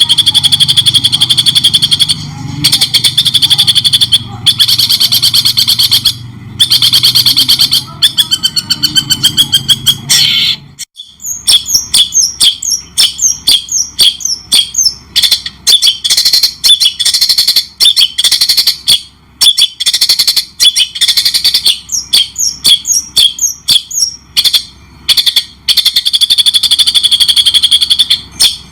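Songbird song from a bird-training recording: loud, rapid chattering trills in phrases broken by short pauses. About eleven seconds in, a low background rumble cuts out and the song changes to quick, separate, high chirps.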